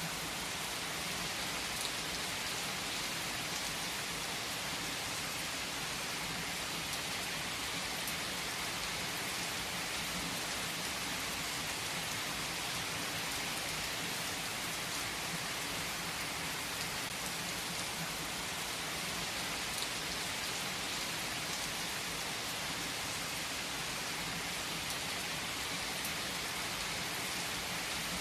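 Steady rain falling on surfaces: an even hiss with occasional single drops ticking through it.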